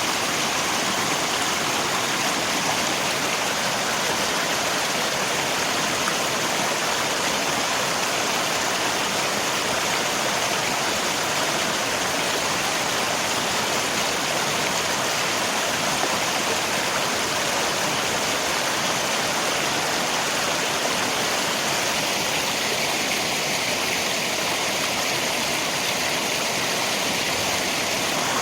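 Steady rushing of flowing river water, an even, unbroken wash of noise, with rain possibly blended in.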